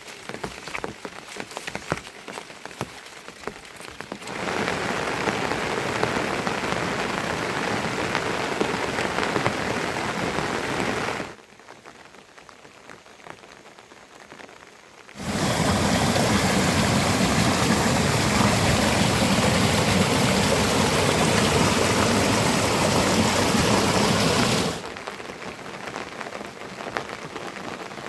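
Rain falling, in stretches that switch abruptly: scattered drips at the start, then a steady downpour, a brief quieter patch, a heavier downpour, and scattered drips again near the end.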